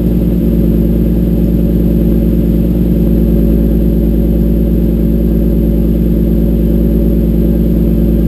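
2007 Nissan 350Z's VQ35HR V6 idling steadily through a Motordyne TDX2 exhaust with ART pipes, a deep, even exhaust note after its cold start has come down to idle.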